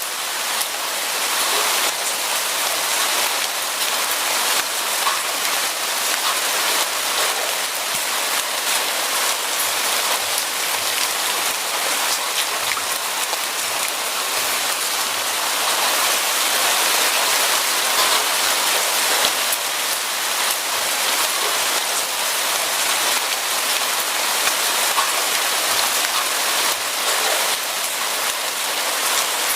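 Steady rain falling on a surface: a dense, even patter of drops that neither builds nor fades.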